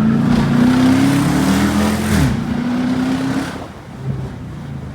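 2012 Dodge Charger R/T's 5.7-litre Hemi V8, with resonator and mid-muffler deleted, accelerating hard: the engine note climbs, drops suddenly about two seconds in at an upshift, climbs again, then eases off near the end.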